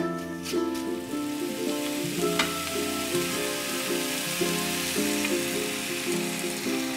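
Chicken pieces sizzling in oil and curry paste in a metal wok while a metal spoon stirs them, with one sharp knock of the spoon against the pan about two and a half seconds in. Background music plays under it.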